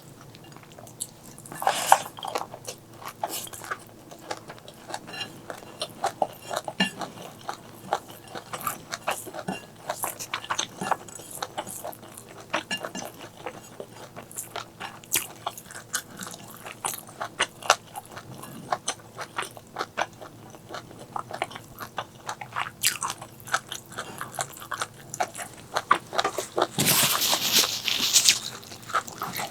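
Close-miked chewing and biting of food, a steady run of small crunchy, wet mouth clicks. Near the end a louder burst of noise lasts about a second and a half.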